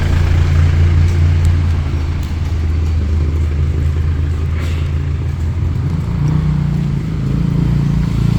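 Motor vehicle engine running close by in street traffic: a loud, steady low hum whose pitch shifts a couple of times.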